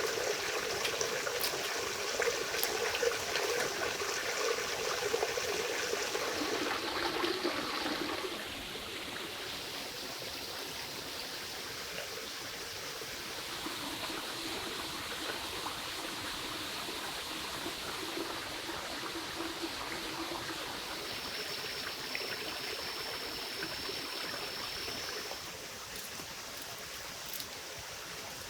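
Running water, like a stream or trickle. It is louder and fuller for about the first eight seconds, then settles to a softer, steady flow.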